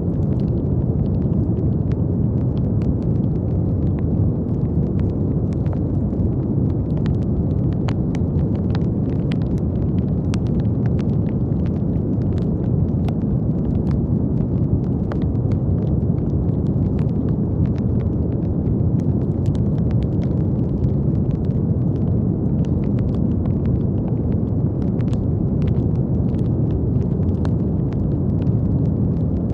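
Steady brown noise, a deep even rumbling hiss strongest in the low end, with faint irregular crackles scattered through it.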